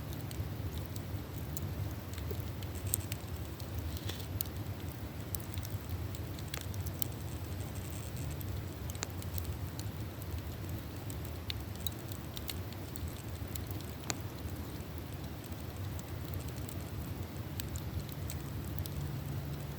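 Wood campfire crackling: scattered sharp pops and snaps at irregular intervals over a low, steady rumble.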